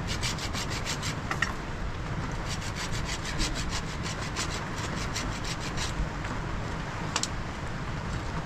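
Rapid rhythmic scraping strokes, about six or seven a second, in two runs with a short pause between them, like a tool or brush worked back and forth over a rough surface.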